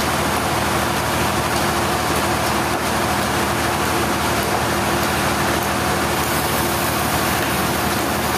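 Sawmill machinery running with a constant, loud mechanical drone and a steady hum that does not change.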